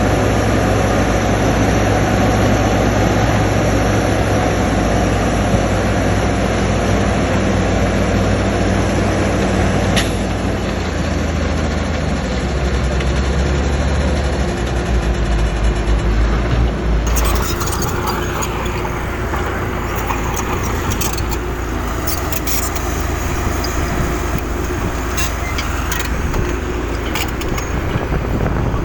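Heavy diesel construction machinery, a bulldozer and dump trucks, running steadily with a deep engine note. About two thirds of the way through the sound changes abruptly to a brighter, noisier mix with scattered clanks and knocks.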